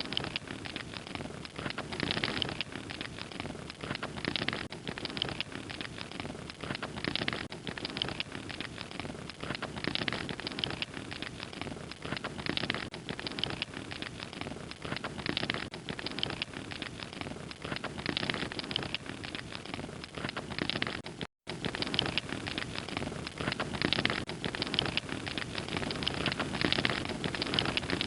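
Wood fire crackling: a dense run of small cracks and snaps over a soft hiss. The sound drops out for an instant about two-thirds of the way through.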